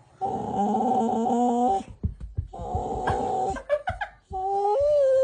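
A dog giving drawn-out, whining, howl-like vocalizations, three in a row with short breaks; the last one starts near the end and is held steady.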